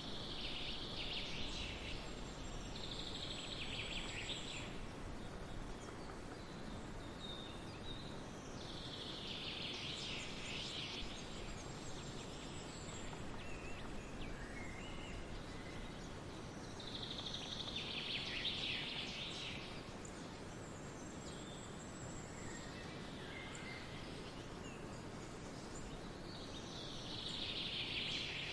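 Forest songbirds singing: full, dense song phrases come every several seconds, with a few thin high notes between them, over a steady soft background hiss.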